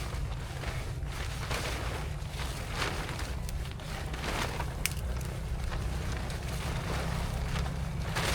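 Low wind rumble on the microphone, with scattered short rustling noises over it.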